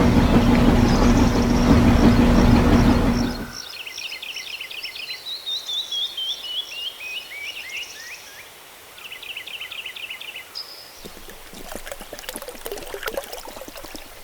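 A small water-pump motor running with a steady hum over a rush of pouring water, cut off suddenly about three and a half seconds in. Birds then chirp, one in a falling series of quick notes, with a few light clicks and rustles near the end.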